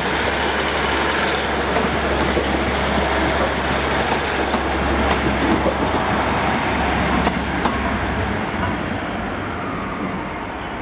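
Transport for Wales Class 197 diesel multiple unit running in over curved track and points: a steady rumble with a low drone and a few sharp clicks from the wheels. The drone stops about eight seconds in and the sound eases off.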